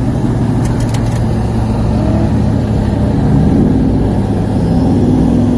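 Car engine droning steadily, heard from inside the cabin while cruising at a roll, with road noise; the revs rise slightly about two seconds in and again near the end.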